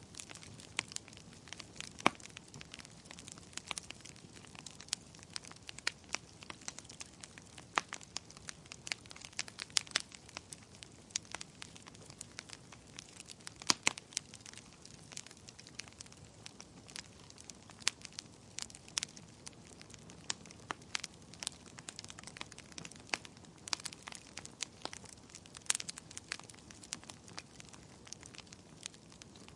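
Wood bonfire crackling, with irregular sharp pops and snaps over a faint steady hiss.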